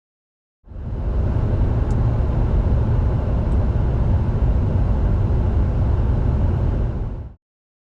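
A 2023 BMW 520d xDrive driving at a steady speed: a low, even rumble of driving noise that rises in about a second in and cuts off abruptly near the end.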